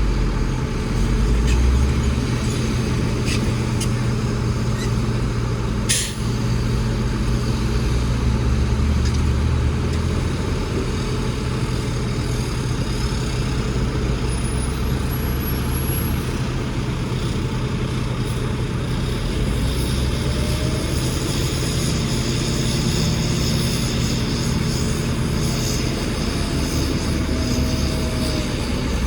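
Heavy diesel engine of earthmoving machinery running steadily, with one brief sharp click about six seconds in.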